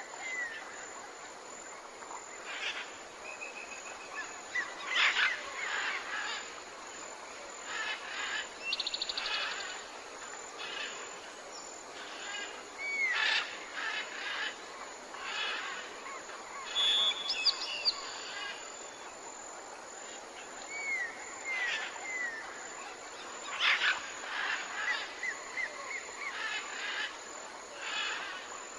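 Wild birds chirping and calling in short bouts: quick curved whistled notes and a few brief buzzy trills, over a steady background hiss.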